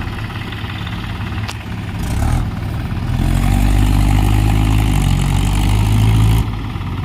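New Holland tractor's diesel engine idling, then revved up about three seconds in and held at higher revs before dropping back abruptly near the end. A single sharp click sounds about a second and a half in.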